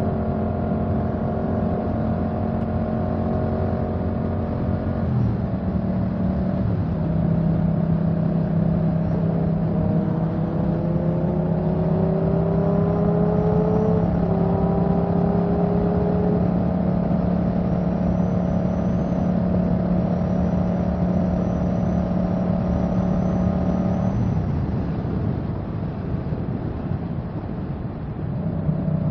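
Motorcycle engine running under way, its steady note stepping down in pitch about five seconds in, climbing gradually through the middle, dropping again near the end and picking back up at the close, over a steady rushing noise.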